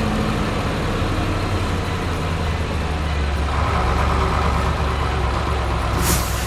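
Heavy vehicle engine running steadily with a low hum, a higher tone joining about halfway through, and a short hiss near the end.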